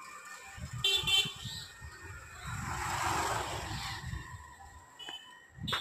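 Road traffic: a short vehicle horn toot about a second in, then a vehicle passing by, its noise swelling and fading around the middle, with another brief horn near the end.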